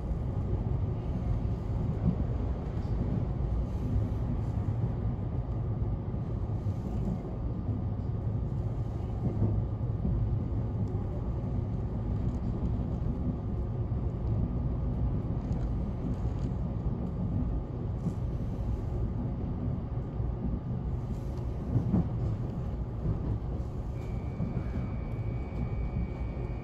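Cabin noise inside a 521 series electric train running along the line: a steady low rumble of wheels on rail, with a few brief knocks. A thin, steady high tone comes in near the end.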